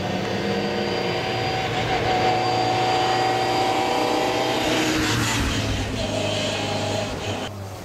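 A classic rally car's engine approaching up the bend, its note building, then passing close by about five seconds in and falling in pitch as it goes away.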